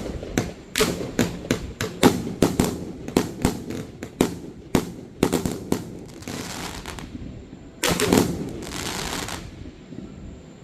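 Aerial fireworks firing and bursting in quick succession, a sharp report about three times a second for the first six seconds. After that come a longer hiss, a loud bang about eight seconds in, and another hiss.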